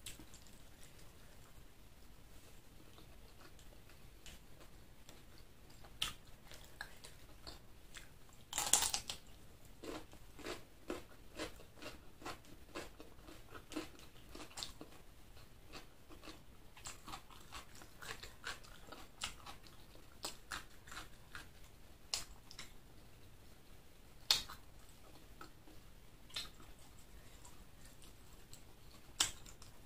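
Close-miked chewing and biting while eating chicken liver and gizzard with rice: irregular wet mouth clicks, with a louder bite about nine seconds in and a few single sharper clicks later on.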